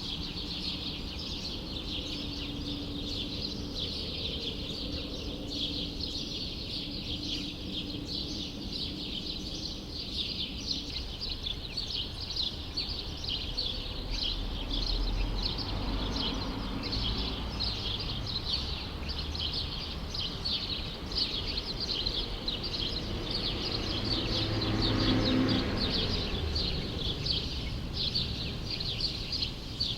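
Many small birds chirping rapidly and without a break in a city courtyard, over a low background of city noise. A vehicle swells past around the middle and again, louder, a little before the end.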